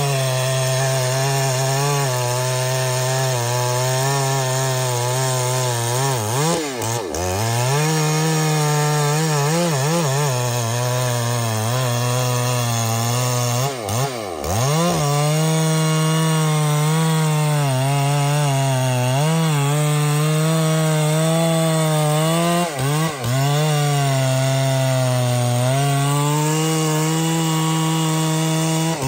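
Chainsaw cutting into a tree trunk, its engine held at high revs. The pitch sags briefly and picks back up three times as the bar works through the wood.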